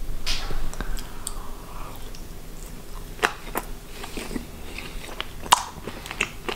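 Close-up sounds of a person biting and chewing a mouthful of pan-cooked pheasant fillet, with several sharp wet mouth clicks in the second half.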